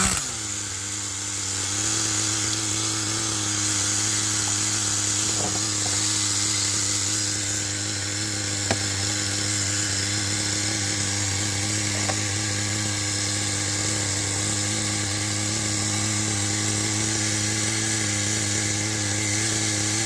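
Kyosho Blizzard's small two-stroke nitro glow engine idling steadily just after starting, with a brief rev dropping back at the very start.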